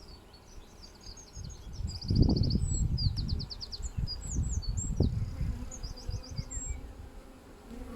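Honeybees buzzing around an open hive while a songbird sings rapid chirps and trills nearby, over an irregular low rumble that is loudest about two seconds in.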